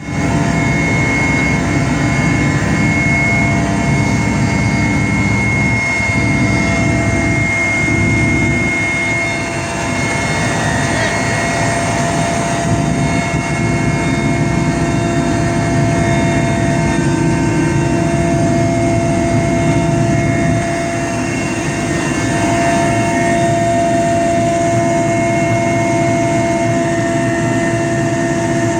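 Helicopter in flight, heard from inside the cabin: a loud, steady engine and rotor noise with a constant high whine over it.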